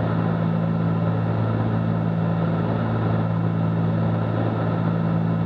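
Cessna 310Q twin piston engines and propellers droning steadily in flight, a constant low hum with an even rushing noise above it.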